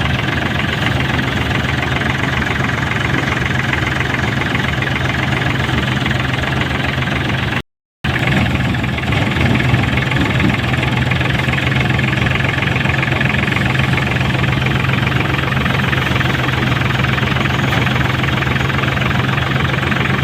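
Tractor engine running steadily, broken by a brief silent gap about eight seconds in.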